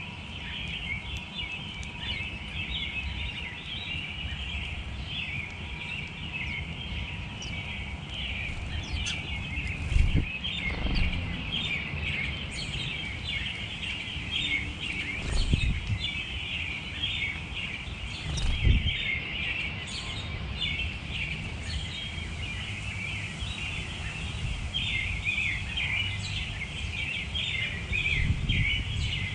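Many small birds chirping and twittering continuously over a low outdoor rumble, with a few low thumps about ten, fifteen and nineteen seconds in.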